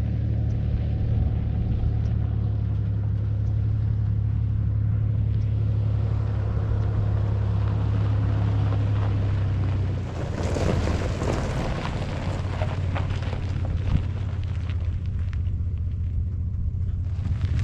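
A vehicle running steadily with a strong low hum; about ten seconds in the sound turns rougher and noisier.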